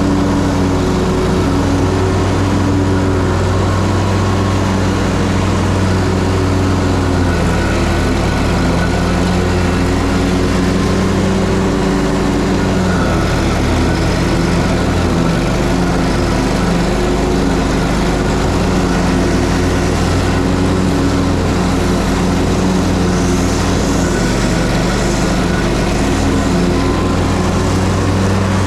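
Ferris Z3X zero-turn mower's 37 hp engine running steadily while mowing, a constant loud drone with a slight change in tone about twelve seconds in.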